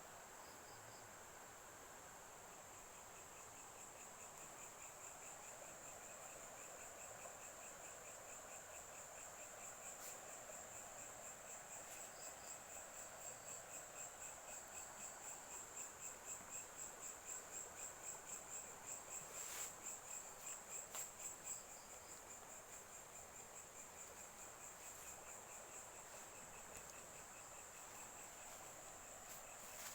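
Crickets trilling faintly: a steady, high pulsing trill, joined a few seconds in by a lower pulsed trill that grows louder through the middle and then eases off. A few faint clicks are scattered through it.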